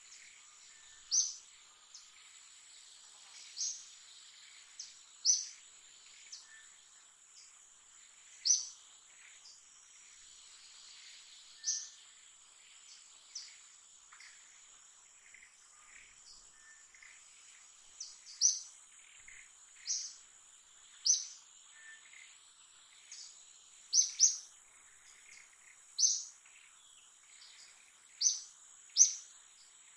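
Short, sharp bird chirps repeated every second or two, coming more often in the second half, over a steady high-pitched insect drone.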